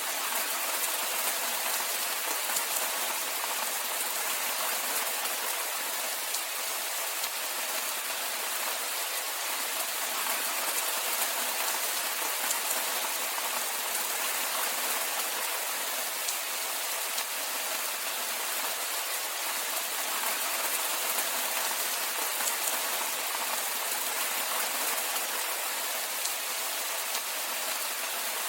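Steady rainfall: an even hiss of rain with fine drop patter, unchanging throughout.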